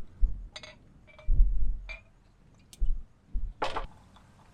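A beer being cracked open: a few clinks and handling knocks, then a short sharp hiss about three and a half seconds in.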